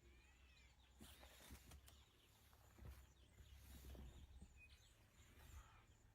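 Near silence: faint outdoor ambience with a few soft bird chirps and a low hum.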